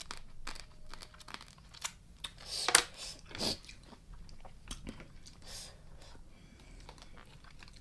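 Close-miked eating of spicy raw blue crab salad: chewing and crunching in irregular bites and clicks, with one louder crunch just under three seconds in.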